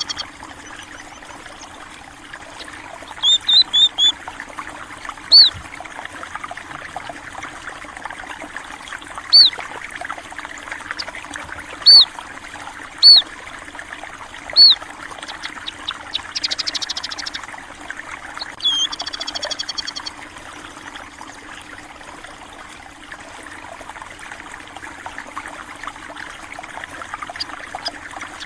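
A stream trickles and flows steadily. Small birds call over it with loud, sharp single chirps every few seconds and a quick run of four chirps early on. About two-thirds of the way through there are two short buzzy trills.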